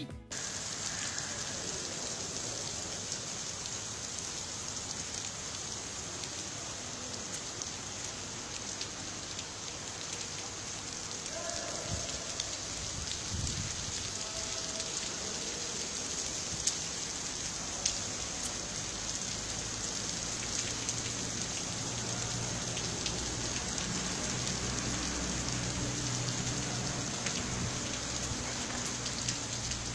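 Steady hiss of falling rain, with scattered faint taps of drops.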